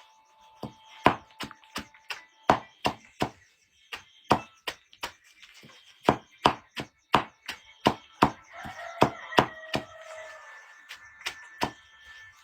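Repeated chopping: a blade striking wood about two times a second at an uneven pace, with short pauses between runs of strokes.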